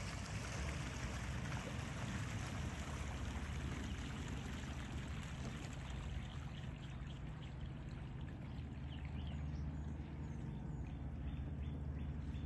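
Running water splashing and rushing over a steady low engine hum; the splashing thins out about halfway through while the hum carries on.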